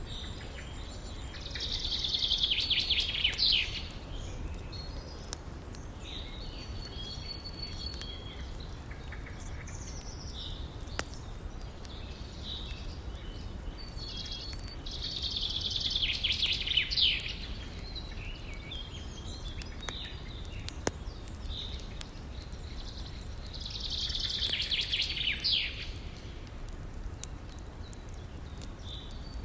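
A songbird singing three loud phrases about two seconds long, roughly ten seconds apart, with fainter chirps between them. Underneath is a steady low rushing of the river, with a few sharp pops from the campfire.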